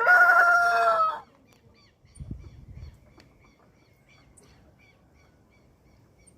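A heavy free-range rooster crowing: the long held last note of its crow ends about a second in. Faint repeated chirps and a brief low rumble follow.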